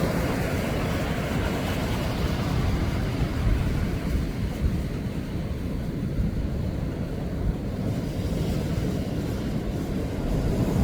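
Rough Pacific surf breaking in a steady low rumble, with wind buffeting the microphone.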